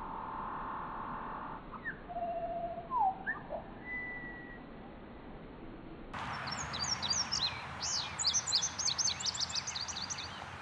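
Bird calls: first a steady tone and a few separate whistled slurs rising and falling, then, about six seconds in, a rapid run of many short, high-pitched chirps.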